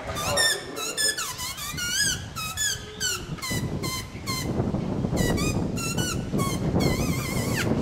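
Birds chirping: a rapid, continuous run of short, high, squeaky calls with wavering pitch. A low rumble comes in under them about halfway through.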